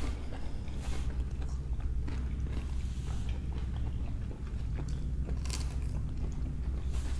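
Close-up chewing and crisp biting of raw cucumber and green chili pepper, with scattered crunches; the sharpest bite comes about five and a half seconds in. A steady low hum runs underneath.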